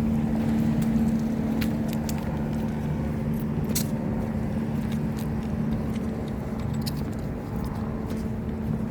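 A steady, low mechanical hum, with a few brief light clicks and jingles about two and four seconds in.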